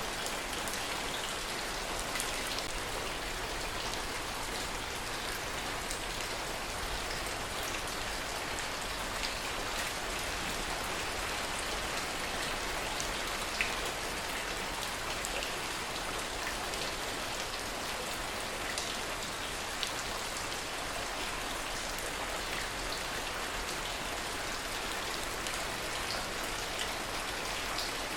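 Steady rain falling, an even hiss with single drops ticking sharply here and there, two of them louder about halfway through and a little later.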